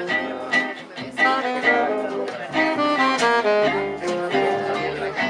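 Jazz manouche band playing live: a melody line moving note by note over steady rhythmic guitar accompaniment.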